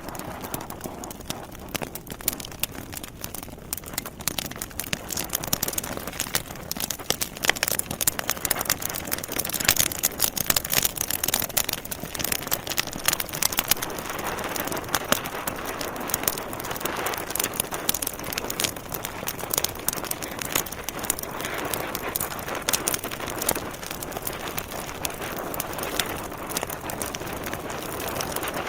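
Log fire crackling in a fireplace: a dense run of irregular sharp pops and snaps over a soft steady hiss, busiest about a third of the way through.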